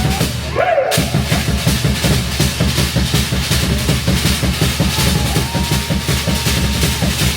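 Fast, driving drumming in a steady rhythm, starting after a short break about a second in, with a long held note over it near the end.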